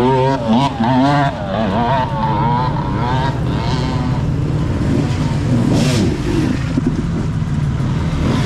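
Motocross motorcycle engines running and revving, their pitch wavering up and down in the first few seconds and then settling to a steadier drone, with a short louder burst about six seconds in.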